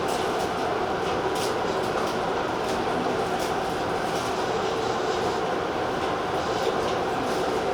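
Tobu Railway TJ Liner train running along the line: a steady rolling noise with a constant hum, and a few faint clicks from the wheels over the rails.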